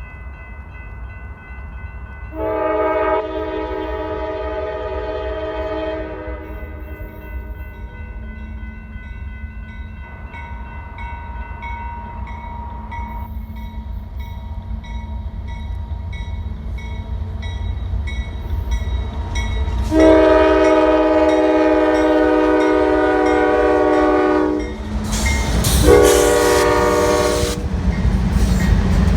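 Diesel freight locomotive's multi-chime air horn: one long blast a couple of seconds in, then a long and a shorter blast near the end, with the low rumble of the approaching train building under it.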